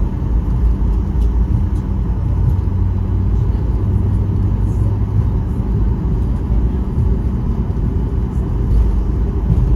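Steady low rumble of jet airliner cabin noise inside a Boeing 737-800, with a faint steady hum above it.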